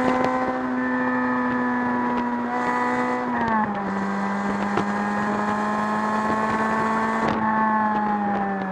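2005 Lotus Elise's 1.8-litre four-cylinder engine pulling hard at high revs. It shifts up a gear about three and a half seconds in with a sudden drop in pitch, then climbs slowly again. Near the end the revs fall away as the car comes off the throttle.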